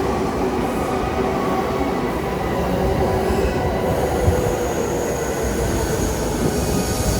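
Electric commuter train moving alongside a station platform: a steady rumble of wheels on rail, with a thin high whine coming in about four seconds in.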